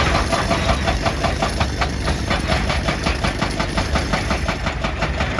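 Excavator-mounted hydraulic breaker hammering rock in a rapid, even run of blows, with the excavator's diesel engine running underneath.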